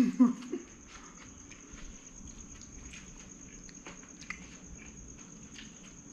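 A toddler chewing crisp lettuce leaves: faint, irregular crunchy clicks over a steady low hum and a thin high whine. A brief voice sound comes at the very start.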